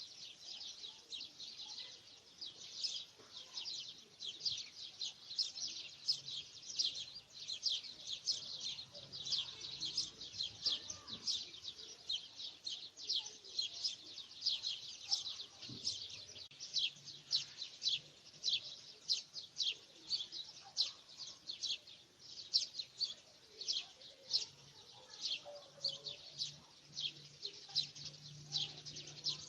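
Birds chirping: a steady stream of short, high chirps, several a second.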